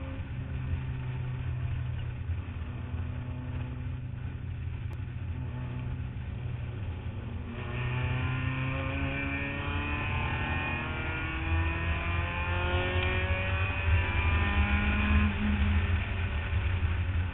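Mazda Miata race car's four-cylinder engine heard from its roof, running steadily at first, then from about halfway under hard acceleration, its pitch climbing in several rising sweeps through the gears before easing near the end.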